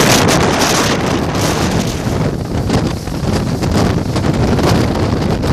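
Strong wind buffeting the microphone: a loud, gusting rumble that rises and falls.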